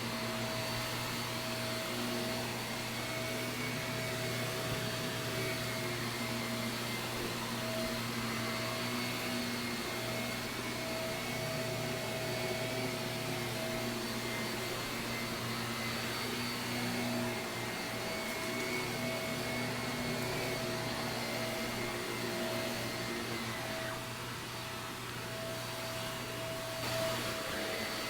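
Shark vacuum cleaner running over carpet: a steady motor whine that eases off slightly about three-quarters of the way through.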